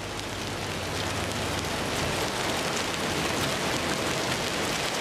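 Rain mixed with small pea-sized hail falling steadily, a dense hiss with many fine ticks of stones landing. It grows a little louder over the first couple of seconds as the shower picks up.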